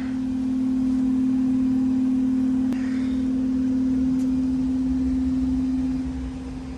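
Air handler running: a steady, pitched electrical hum over the low rush of the blower and airflow. It grows louder about a second in and eases off near the end.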